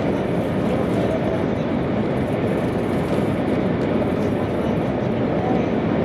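Steady running noise inside the passenger cabin of an E2 series Shinkansen train: an even, low rumble of the train moving along the track.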